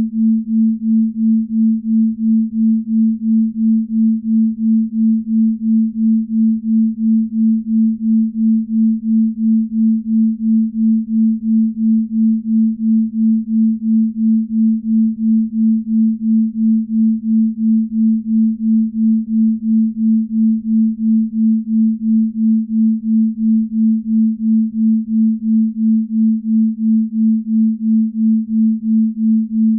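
Binaural-beat tone: a steady pure sine tone near 220 Hz, pulsing evenly a little over twice a second. The pulse is the slow beat between two near-identical tones, in the delta range used for deep-sleep tracks.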